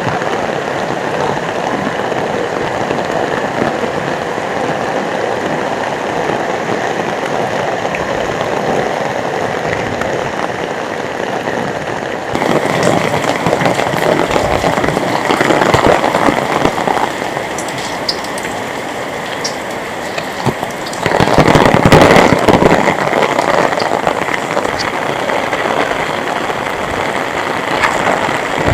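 Heavy rain pouring down in a steady, dense hiss. About twelve seconds in it turns brighter and louder, and about twenty-one seconds in a louder surge lasts about two seconds.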